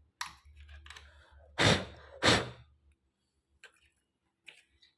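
Two short, strong puffs of breath blown out about half a second apart, blowing dust out of a sewing machine's workings. A few faint clicks of handling follow.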